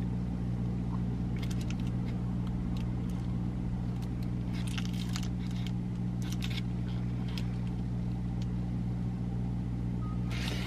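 A car engine idling, heard inside the cabin as a steady low hum, with a few faint clicks over it.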